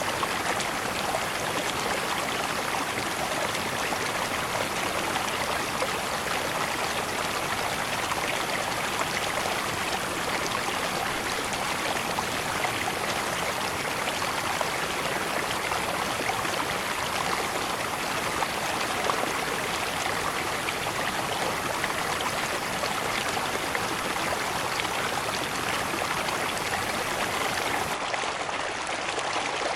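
Steady rush of flowing water from a river cascade, an even hiss and splash with no single events.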